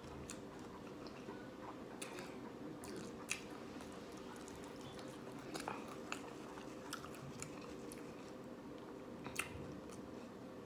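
Chewing a crunchy hard-shell taco: scattered short crunches and mouth clicks, two of them louder, over a faint steady hum.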